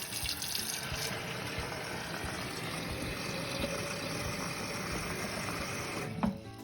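Water running steadily into a glass jar as it is filled halfway. The sound stops about six seconds in.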